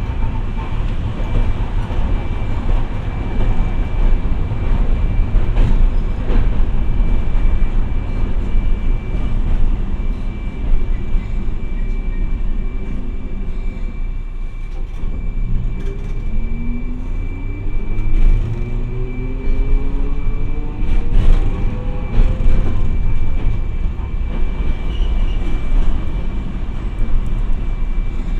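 Hiroden 700 series streetcar No. 701 running on its tracks, with a low rumble and scattered knocks from the wheels and rails. About halfway through it eases off, then the motor whine climbs steadily in pitch as the tram speeds up.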